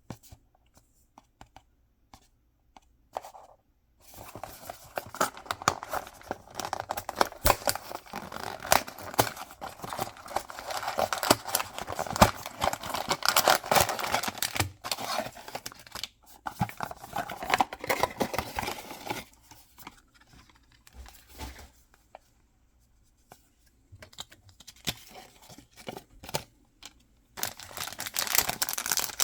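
Mystery-box packaging being torn open and crinkled by hand, in long stretches of dense crackling and rustling. There is a quieter pause of scattered crackles partway through, and the tearing and rustling pick up again near the end.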